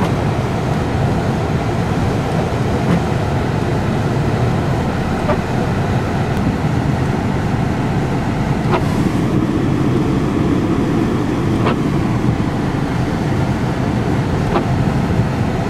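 Steady engine and tyre noise heard from inside a car driving on a wintry road, with a faint tick about every three seconds.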